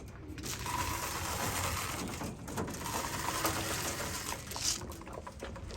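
Grain feed rattling as it is poured out for racing pigeons, a dense patter lasting about four and a half seconds, with pigeons cooing faintly near the end.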